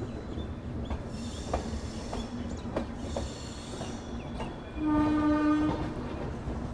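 Jaipur–Udaipur Intercity Express rolling slowly into a station as it brakes, rumbling, with clanks from the wheels over rail joints and two spells of high-pitched wheel squeal. A short, loud train horn blast sounds about five seconds in.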